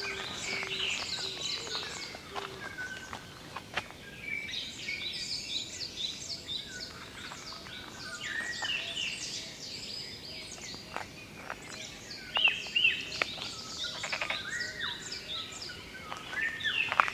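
Many wild birds singing and calling at once, a dense mix of short chirps and whistled phrases with no single voice standing out.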